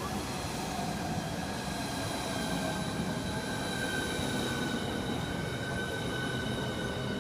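Southeastern Class 395 high-speed electric train coming into the platform: a steady rumble of running noise with several high whining tones held level throughout.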